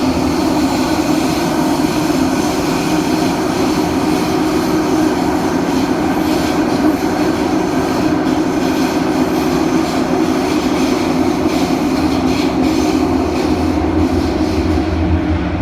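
CT251 metro train running at speed, with a loud, steady rumble of wheels on rail heard from inside the car. The train's wheels have severe flat spots.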